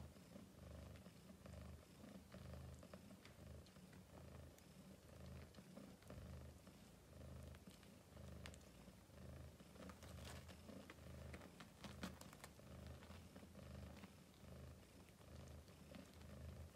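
A cat purring steadily and faintly, the low purr pulsing in an even rhythm about one and a half times a second, with a few faint small clicks and rustles over it.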